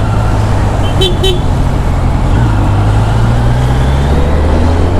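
Steady drone of a vehicle on the road, engine and wind noise. About a second in, a vehicle horn gives two short toots.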